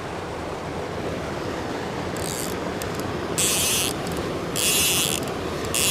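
Creek water rushing steadily, and from about two seconds in, several short bursts of rapid high clicking, about one a second, from a fly reel's click drag as a hooked fish is reeled in.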